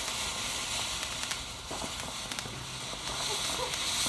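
A burning firework giving off a steady hiss with scattered crackles.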